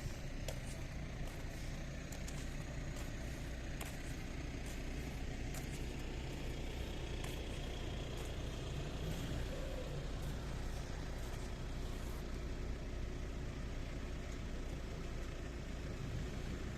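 Outdoor town ambience with a motor vehicle's engine running steadily, a low hum throughout, and scattered small clicks and knocks in the first few seconds.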